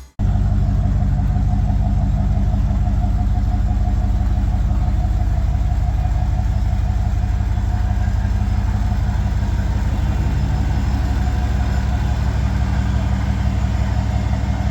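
1994 Dodge Dakota's engine idling steadily.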